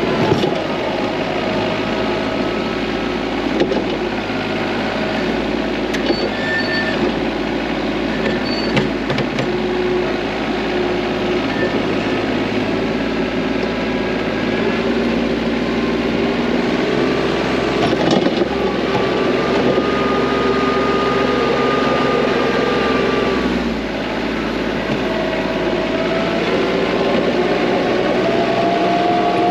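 TYM T25 compact tractor's diesel engine running steadily while plowing snow with the front bucket. Its pitch shifts a few times, with a brief dip about three-quarters of the way through and a few short clunks along the way.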